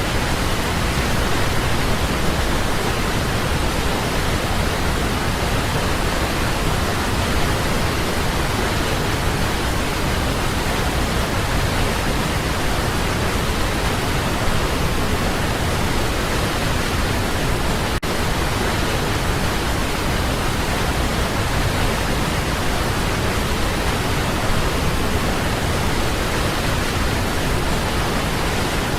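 Waterfall: water falling in a steady, even rush with no breaks.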